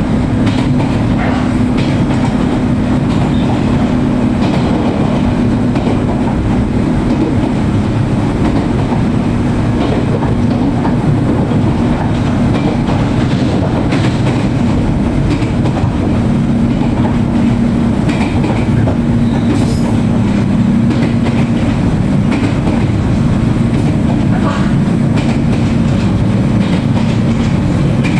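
Aboard the motor car of a 413 series electric train while it runs: a steady rumble of wheels on the rails with a hum from the traction motors and gears underneath the floor, loud and even throughout.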